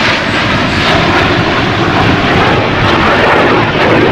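Snowbirds' CT-114 Tutor jets flying past: loud, steady jet engine noise that grows a little stronger near the end.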